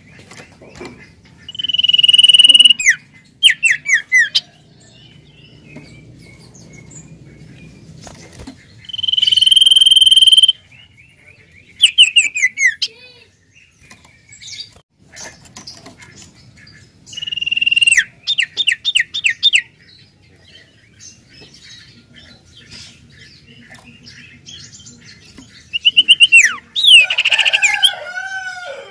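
A common iora (cipoh/sirtu) singing four times, about every eight seconds: each phrase is a long, steady high whistle followed by a quick run of four or five downward-slurred notes. The last phrase, near the end, is longer and drops to lower notes.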